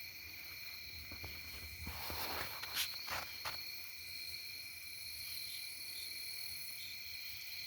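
A steady high-pitched insect chorus, a continuous trilling drone in two pitch bands. About two to three and a half seconds in, a brief rustle and a few sharp clicks sound over it.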